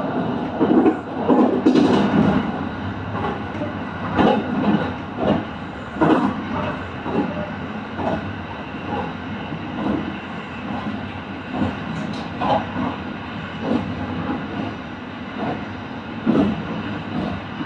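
Kintetsu electric train running along the line: a steady rumble with sharp knocks from the wheels at irregular intervals every second or two.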